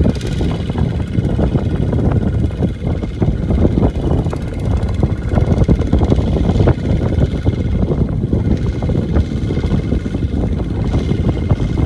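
Small farm tractor's engine running steadily with a rapid, even beat.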